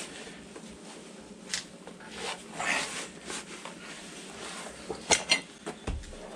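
Scattered rustling and light clicks of objects being handled, with two sharp clacks about five seconds in.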